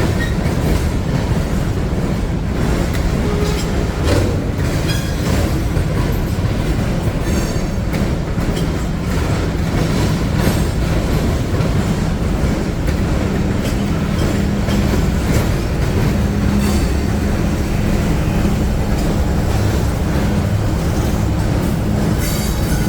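Freight train rolling past close by: a loud, steady rumble of rail cars on the track, with a few scattered clanks.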